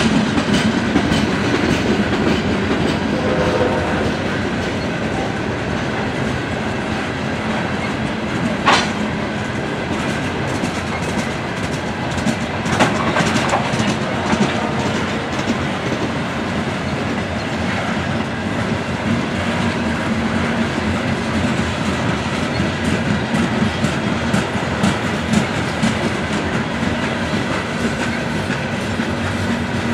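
Freight train's open-top coal hopper cars rolling past at close range: a continuous steel-wheel rumble and rattle with wheels clacking over rail joints, and one sharp clank about nine seconds in.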